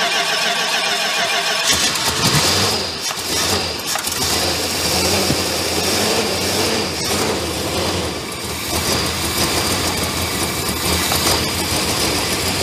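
1969 Dodge Charger's V8 cranking on the starter, then catching about two seconds in and running unevenly at idle on seven of its eight cylinders, one spark plug missing, so it runs rough, with dips around three and eight seconds in.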